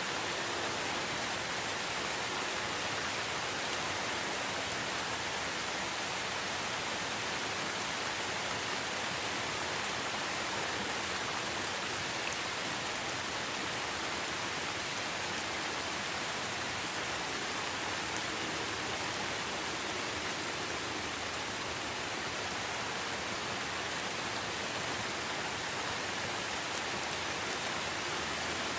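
Steady rain falling as an even, unbroken hiss, with no separate drops or other sounds standing out.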